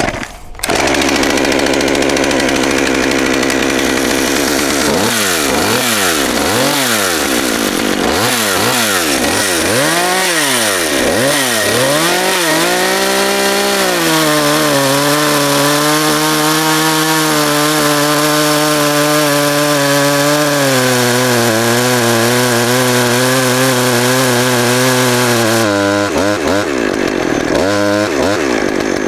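Stihl MS 201 two-stroke chainsaw starting up and being blipped several times, its revs rising and falling, then held at full throttle for about twelve seconds as it cuts through wood, its pitch sagging slightly under load, before the revs waver near the end.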